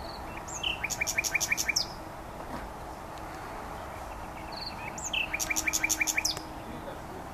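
Common nightingale singing: two short phrases a few seconds apart, each a few lead-in notes followed by a quick run of about six sharp, repeated notes.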